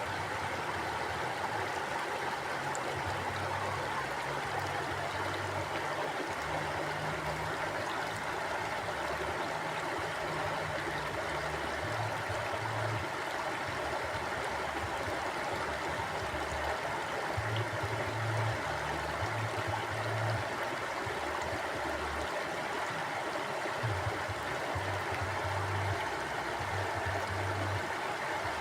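Mountain stream flowing: a steady rush of water over rocks, with a low rumble underneath that swells and fades every few seconds.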